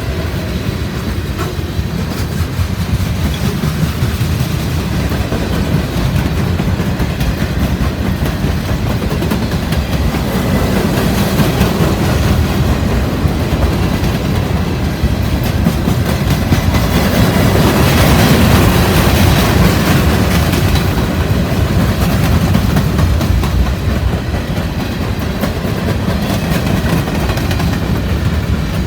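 Pan Am Railways freight train's cars rolling past, wheels clicking and clattering over the rail joints in a steady, loud rumble that swells a little toward the middle.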